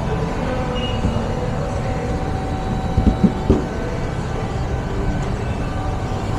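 Vehicle engine running steadily, with three or four short knocks about three seconds in.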